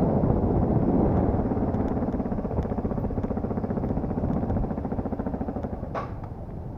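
Dirt bike engine running with a steady pulsing beat, fading away gradually, with one short knock about six seconds in.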